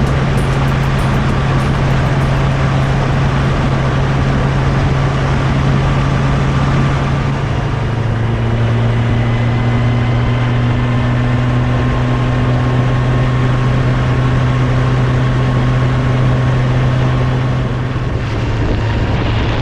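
Kawasaki Z1000SX inline-four motorcycle engine running at a steady cruise, with wind rushing over the microphone. The engine note drops a little about seven or eight seconds in and then holds steady again.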